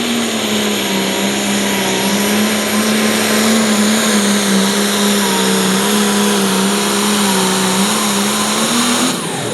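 International 1466 light limited pro stock pulling tractor's turbocharged diesel engine running flat out under load on the pull, a loud steady drone that drops off sharply about nine seconds in.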